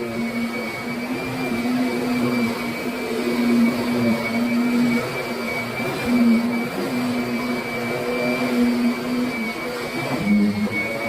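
Kirby Sentria upright vacuum cleaner running steadily, a motor hum with a thin high whine over it; the hum drops slightly in pitch about ten seconds in.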